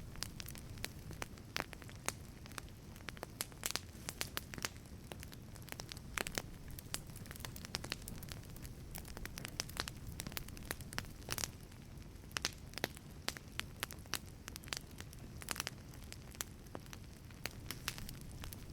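Wood fire burning in a wood-fired pizza oven, crackling with frequent, irregular sharp pops over a low, steady rumble of flame.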